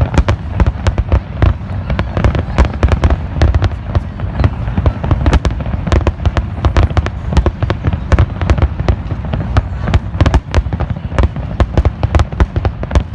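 Fireworks display going off without a pause: rapid, overlapping bangs and crackles, several a second, over a continuous deep rumble.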